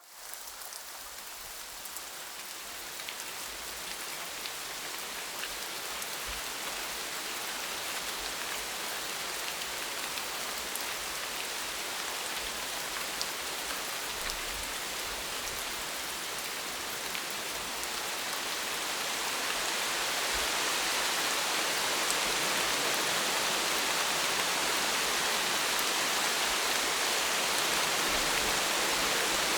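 Steady rain falling, a dense even hiss with scattered drop ticks. It fades in at the start and grows heavier about twenty seconds in.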